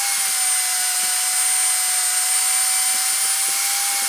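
Magnetic drill running with a steady, even whine while drilling into a steel I-beam.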